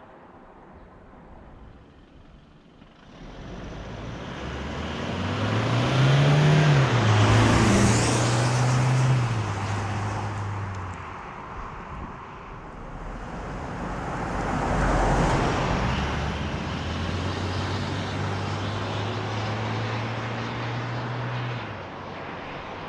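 Toyota HiLux's 2.8-litre turbo-diesel four-cylinder driving, with a steady low engine note under tyre and road noise that swells and fades twice, peaking about seven seconds in and again about fifteen seconds in.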